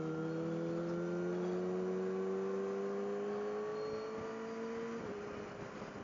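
A 600 cc sport bike's engine under steady throttle, its note rising slowly, then falling sharply about five seconds in.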